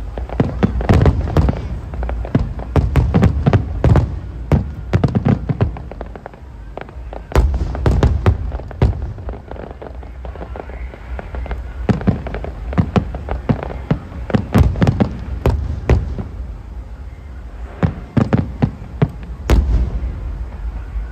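Aerial fireworks display: rapid volleys of shell bursts, with sharp bangs and deep booms one after another. There are short lulls about ten seconds in and again near seventeen seconds.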